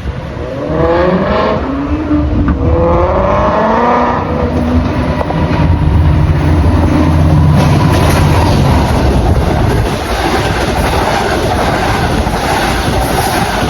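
A train on the move: a pitched motor whine that rises twice in the first few seconds, then a deep steady hum, then a steady rush of wheel and rail noise from about ten seconds in.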